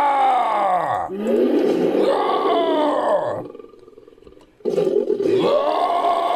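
Made-up ape creature calls mixed from orangutan, ape and big-cat roar recordings. A roar falls in pitch, a second roar dies away about three seconds in, and after a short pause another call starts.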